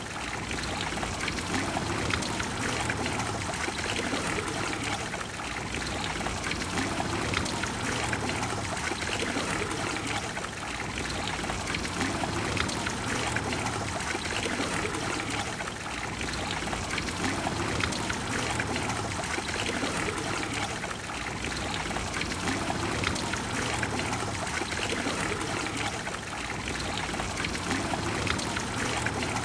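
Water of the Trevi Fountain splashing and flowing over its stone basins, a steady, even rush.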